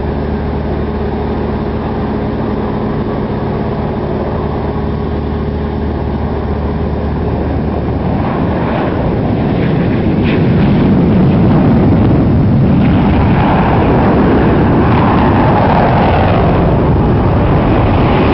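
A low-flying aircraft's engines: a steady drone that gives way, about halfway through, to a louder, rushing roar as the plane comes close.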